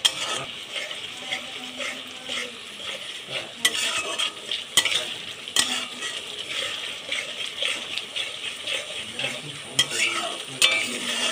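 Thick yogurt-and-onion masala sizzling in hot oil in a metal wok while a metal spatula stirs and scrapes through it, the spatula knocking sharply against the pan several times. The masala is being cooked down over raised heat until the oil starts to separate.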